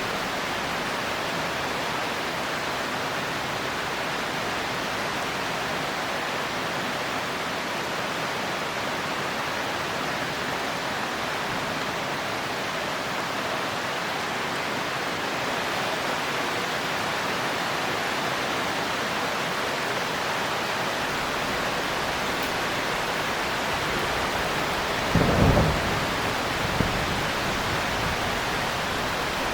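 Heavy rain falling steadily, with a short, loud low rumble of thunder near the end.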